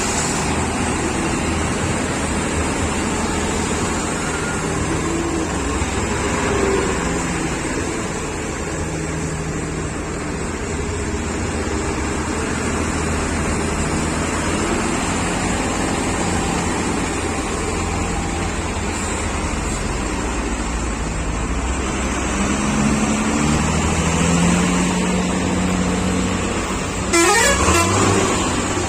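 Heavy trucks' engines running in traffic, with a steady low drone that climbs in pitch after about 22 seconds as an engine works harder. A short, loud sweeping noise comes about two seconds before the end.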